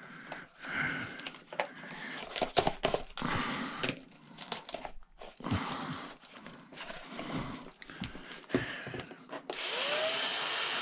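Clicks, knocks and scraping of metal parts being handled and pried at while an appliance part is taken apart. Near the end a small power tool motor spins up with a short rising whine and runs steadily for about two seconds.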